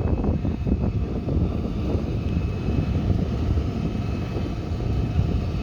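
Steady low engine rumble with no clear starts or stops.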